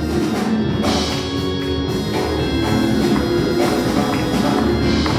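Live gospel band music, an instrumental stretch between sung lines, with steady held chords and light percussion.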